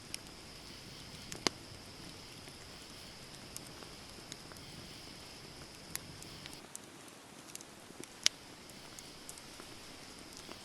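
Wood campfire burning with a low hiss and scattered crackles, and two sharp loud pops about a second and a half in and again around eight seconds.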